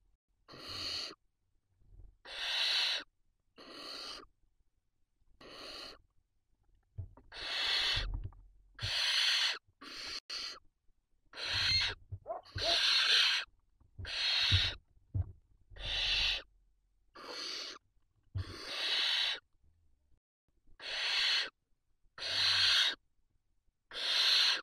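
Barn owl chicks giving their rasping, hissing begging calls over and over, about one call a second, each lasting half a second to a second.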